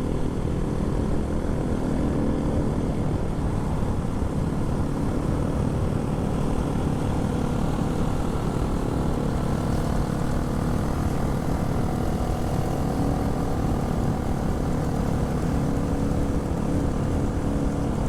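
Honda MSX 125 minibike's single-cylinder engine running steadily at cruising speed, under heavy wind noise rushing over the microphone.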